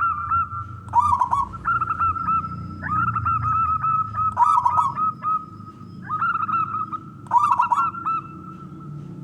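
Male zebra dove (perkutut) cooing: repeated phrases of quick, ringing notes, one every few seconds.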